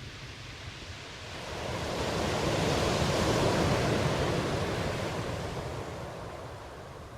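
Ocean wave surging in and washing back: a hiss of surf that swells from about a second in, peaks midway and fades away near the end, over a steady low rumble of sea.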